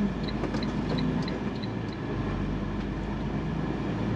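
Semi truck's diesel engine idling steadily, heard from inside the cab, with a light, quick ticking about three times a second during the first second and a half.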